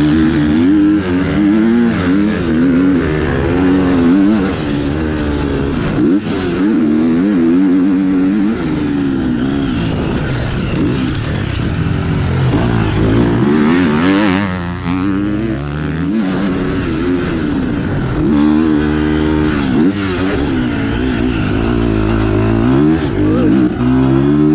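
KTM SX-F four-stroke motocross bike, running a JD Racing aftermarket ECU map, ridden hard: the engine note climbs and drops again and again under throttle and gear changes.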